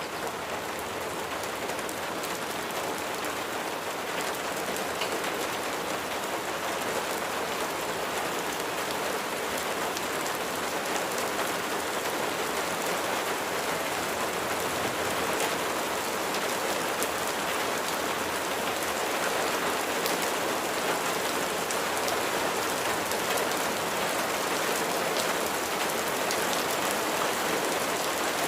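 Steady rain falling on a surface, a dense patter of many individual drops ticking, growing slowly louder.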